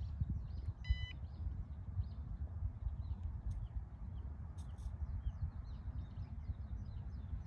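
Wind buffeting the microphone with a steady low rumble, while small birds chirp over and over. A short electronic beep sounds once about a second in.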